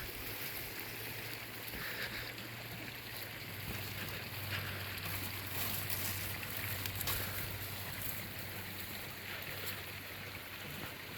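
A river rushing steadily, its flowing water an even noise with a few faint clicks over it.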